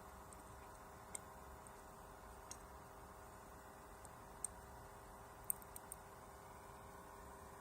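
Faint steady hum with a handful of sharp light clicks and ticks, about six spread irregularly over several seconds, typical of small tools being handled during fine soldering work.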